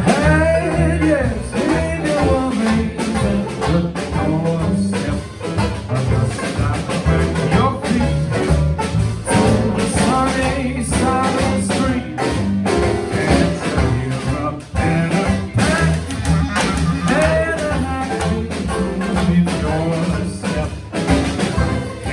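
Live jazz band playing, a melody line over bass and drums with steady drum strokes.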